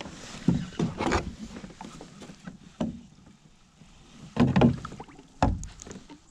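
Knocks and bumps of handling in a kayak while a hooked white bass is brought in, coming at uneven moments, with the loudest a little past four seconds in and another about a second later.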